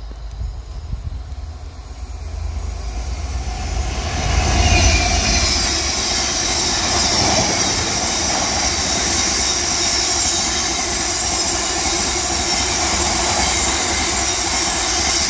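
Freight train of red DB open box wagons passing close by, growing louder as it approaches and loudest about five seconds in. After that comes a steady rolling rumble and hiss of the wagons' wheels on the rails.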